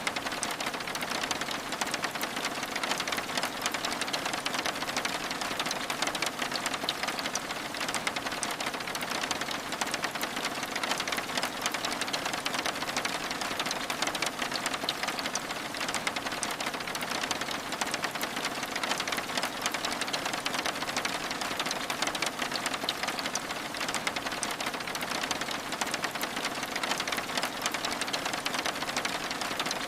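Steady rain, a dense, even patter of drops on window glass.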